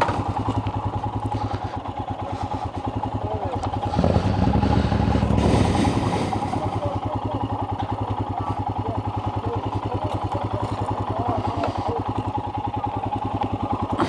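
Motorcycle engine running nearby with an even, rapid pulse, getting louder for about two seconds around four seconds in as it is opened up or moved, then settling back to a steady run.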